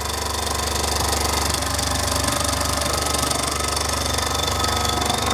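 Mamod MM2 model steam engine, fired by its burner, running steadily at speed with a fast, even beat, ticking over smoothly with no loose bits rattling.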